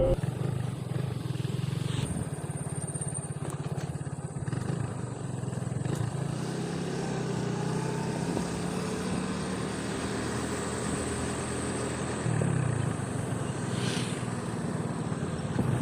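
Motorcycle engine running steadily while riding, with road and wind noise; the engine note shifts briefly about twelve and a half seconds in.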